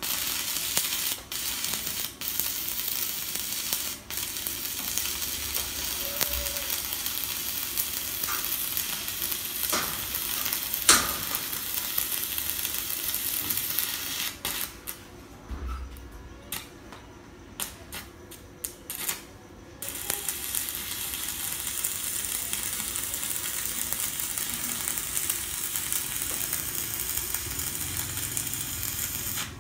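Stick-welding arc from a Kenmax ARC200I inverter welder burning a 2.5 mm electrode at about 124 A, a steady crackling sizzle. A bit past halfway the arc drops out for several seconds, with a few brief spits as it restrikes, then burns steadily again.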